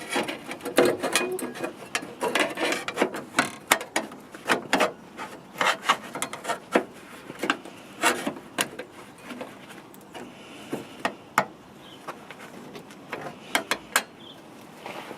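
Irregular knocks, clicks and scraping of hand work on steel chassis metal, dense at first and thinning out after about nine seconds.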